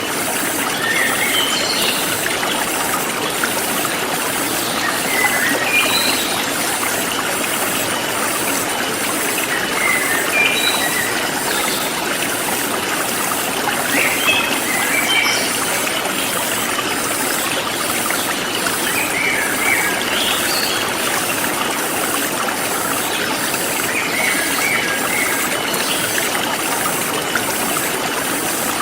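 Forest stream flowing steadily, with small birds chirping in short calls every few seconds and a regular high-pitched insect pulsing behind.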